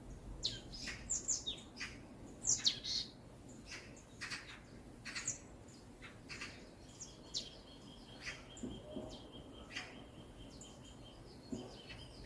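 Wild birds chirping: many short, sharp, quick notes, some sweeping down in pitch. A thin, steady high tone is held for about four seconds in the second half.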